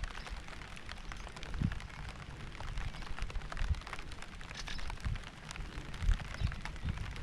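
Steady rain falling, with many individual drops pattering sharply on a nearby surface over a constant low rumble.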